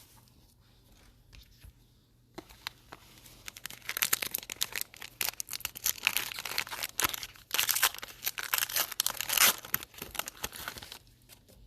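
A Donruss football card pack's wrapper being torn open and crinkled, a dense crackling that starts a couple of seconds in, comes in two louder spells and stops just before the end.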